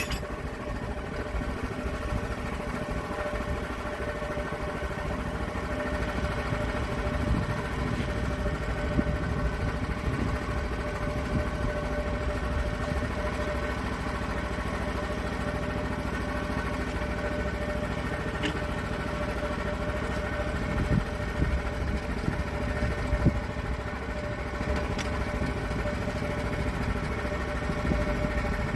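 Small gas engine of a sawmill running steadily under load while it cuts through an oak log, with a few sharp ticks near the end.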